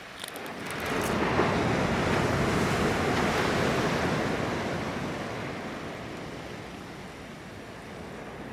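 Ocean surf: a wave breaks and washes up the beach, swelling about a second in and then slowly fading as it runs out.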